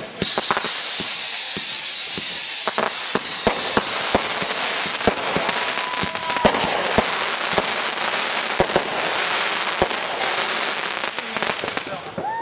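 Fireworks display: a dense, continuous crackle with scattered sharp bangs, and over the first five seconds several high whistles, each falling in pitch.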